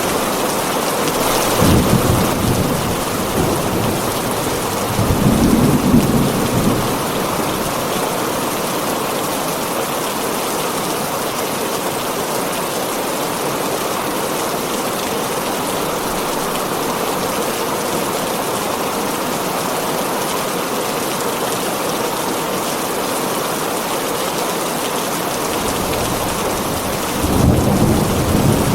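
Heavy rain falling steadily on a tin roof, with low rolls of thunder rumbling up about two seconds in, again around six seconds, and near the end.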